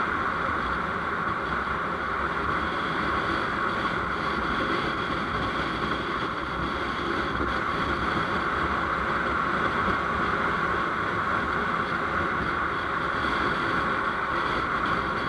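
A motorcycle riding along the road: steady engine and road noise with wind rushing past, at an even level throughout.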